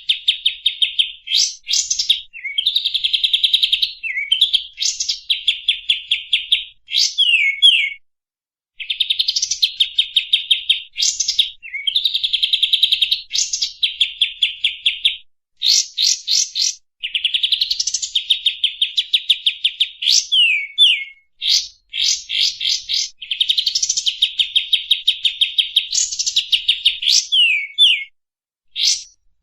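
Recorded songbird song played as a masteran tutor track for caged birds: long rapid buzzy trills broken by sharp rising and falling whistled notes, repeated in phrases a few seconds long with brief pauses between, the longest near the eight-second mark.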